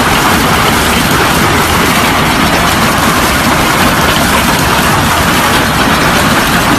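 Heavy hail pounding down: a loud, dense, continuous clatter of countless stone impacts with a steady rushing roar underneath.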